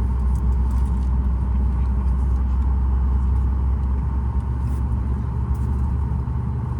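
Steady cabin drone inside a Boeing 737 MAX 8 on the ground: a constant low rumble with a faint steady whine above it.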